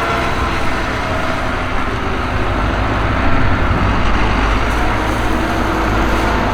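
New Holland T7.245's six-cylinder 6.7-litre NEF diesel engine running steadily while ploughing, its note wavering slightly in pitch.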